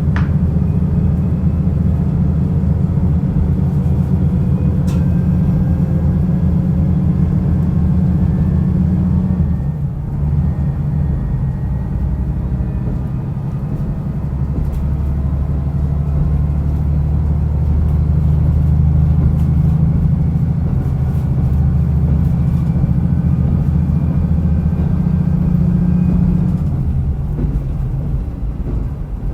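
Diesel railcar heard from on board while running, a steady low engine drone over wheel and track noise. The engine note changes about ten seconds in, and the sound eases slightly near the end.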